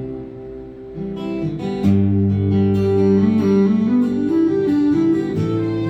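Acoustic guitar playing the instrumental close of a live country song. The music drops back for about the first second, then the guitar picks back up and rings out with held notes.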